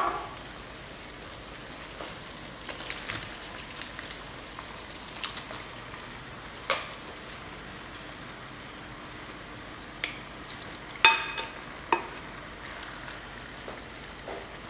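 Chopped onion and garlic frying in oil in a pan, a steady soft sizzle. Scattered sharp clicks and knocks of a utensil and bowl against the pan as diced fresh tomatoes are added, the loudest about eleven seconds in.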